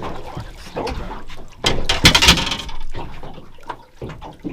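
A squid being hauled out of the water on a jig and landed, with a loud rush of splashing water lasting about a second near the middle and scattered knocks of handling.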